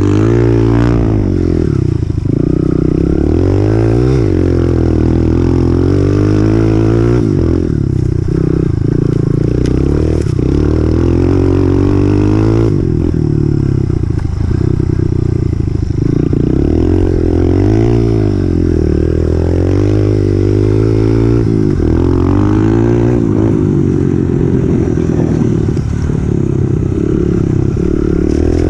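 2018 Honda CRF125F dirt bike's single-cylinder four-stroke engine under way, revving up and dropping back again and again as the throttle opens and closes.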